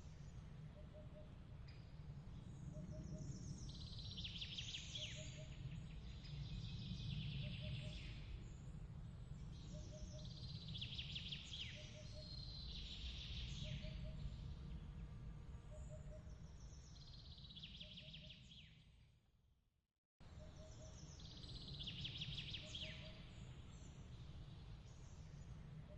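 Nature ambience: a steady low rumbling noise bed with bursts of bird chirping every few seconds and a faint short peep repeating about once a second. About three-quarters of the way through it fades to silence and cuts straight back in, the join of a looped ambience recording.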